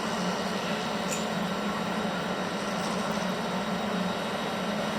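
Steady railway-station background noise: a low hum under an even hiss, with one sharp click about a second in.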